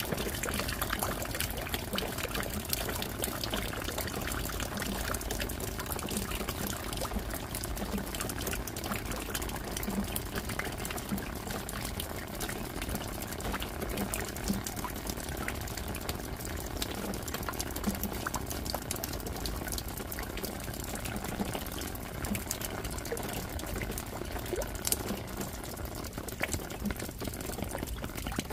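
Steady rain falling, a dense, even rush made of countless small drop hits.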